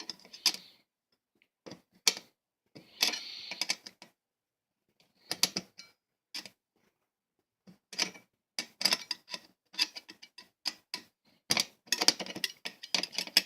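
Butter knife used as a screwdriver, clicking and scraping against a screw in a plastic box fan in irregular short bursts, with a quicker run of clicks near the end.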